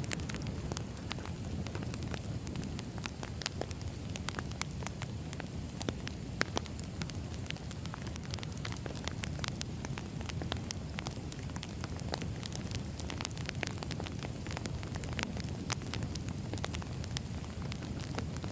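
Burning firewood crackling: a steady low rush of flames with frequent, irregular sharp crackles.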